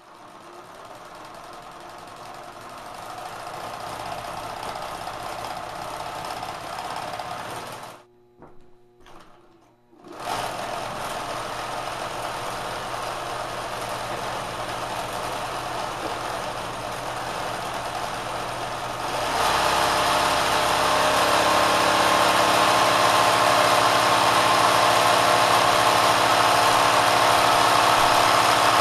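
Kenmore sewing machine driven by a swapped-in 3/4 hp motor, run at high speed. It builds up over the first few seconds, cuts out for about two seconds around eight seconds in, starts again, then steps up louder about nineteen seconds in.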